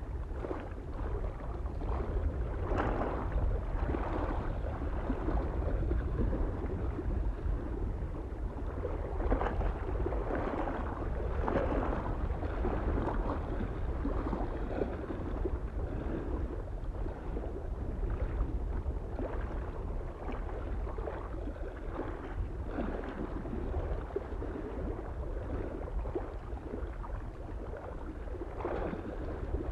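Small waves lapping and splashing irregularly against a mountain lake shore, with a steady low rumble of soft wind underneath.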